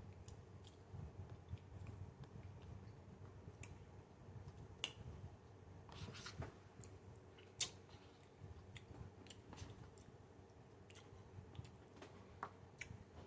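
A person chewing food with soft mouth clicks and smacks, with two sharper clicks about five and seven and a half seconds in.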